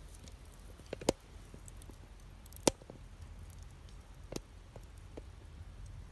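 Wood fire crackling: a handful of sharp pops from burning wood, the two loudest about a second in and near the middle, over a low steady rumble.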